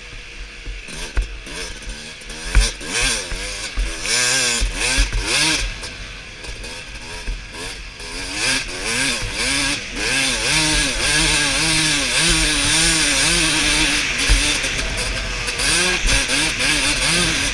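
Suzuki RM 250's two-stroke single-cylinder engine revving up and down over and over as the motocross bike is ridden, getting louder about halfway through. Scattered low thumps sound under the engine.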